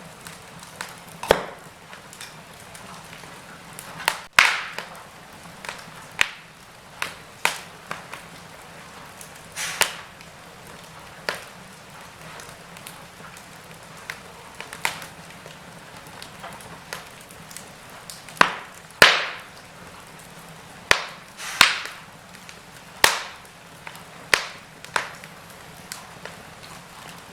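Wood fire in a fireplace crackling, with irregular sharp pops and snaps over a soft steady hiss, the loudest snaps about four seconds in and about nineteen seconds in.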